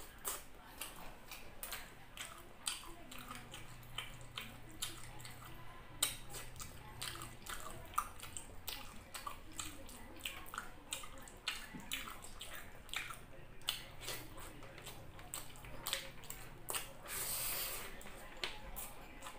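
Close-up wet chewing and lip-smacking of a person eating chicken and rice by hand: a dense run of short, moist clicks, with a longer hissing sound about seventeen seconds in.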